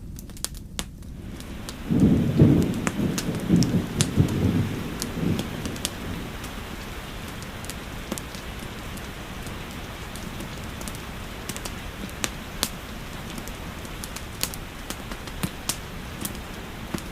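Steady rain falling, with a roll of low thunder about two seconds in that fades over a few seconds. Fireplace crackles pop now and then throughout.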